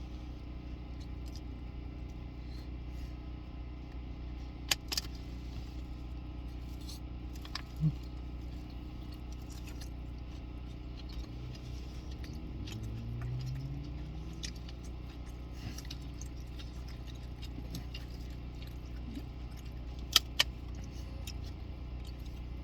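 Eating takeout in a car: a few sharp clicks and light rustles from handling plastic food containers and wrappers, over a steady low hum inside the car. About halfway through there is a brief rising hum.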